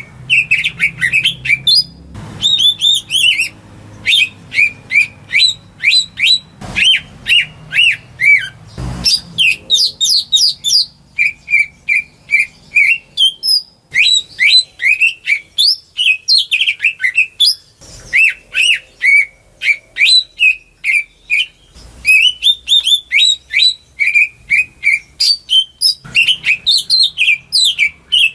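Cucak ijo (green leafbird) singing a fast, nearly unbroken stream of varied chirps, whistles and trills, with a few short clicks in between.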